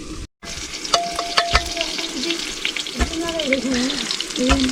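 Food sizzling and crackling as it fries in a pan, with a spoon stirring and clinking against the pan; the sound drops out completely for a moment just after the start.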